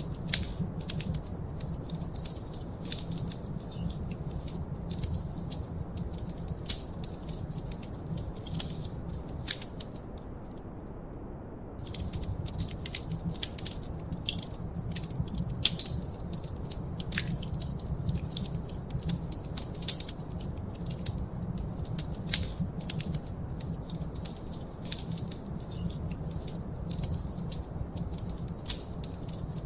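Wood fire crackling in a fireplace: dense, irregular sharp pops and snaps over a steady low rumble. The crackling drops out for about two seconds a third of the way in, leaving only the soft rumble.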